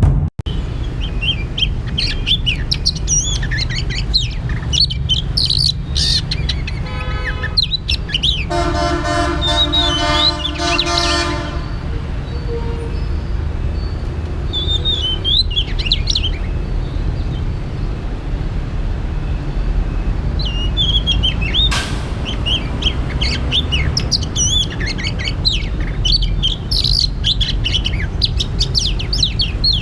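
Oriental magpie-robin singing: varied, short whistled phrases again and again. A horn sounds for a few seconds near the middle, over a steady low rumble.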